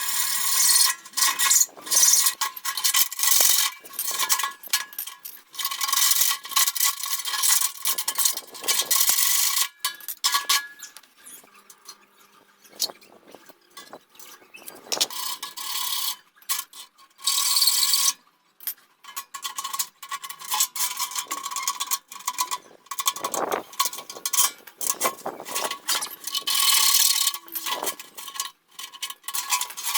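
Workshop tool work: repeated bursts of a small power tool running a second or several at a time, with scraping and clicking between the bursts.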